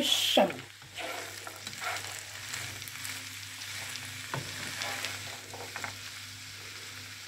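Minced beef, carrot and spring onion filling sizzling steadily in a frying pan while it is stirred with a spatula, which scrapes and clicks against the pan now and then.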